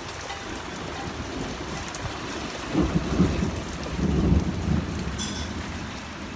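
Heavy rain pouring down steadily, with a big thunder boom rumbling in two low swells, about three seconds in and again about four seconds in.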